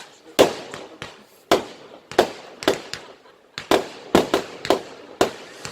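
Fireworks bursting in quick succession: about a dozen sharp bangs, each dying away quickly, coming faster after the first few seconds.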